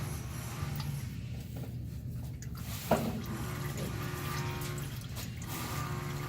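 Engine oil dripping and trickling from the loosened oil filter into the drain pan, with a single sharp knock about three seconds in.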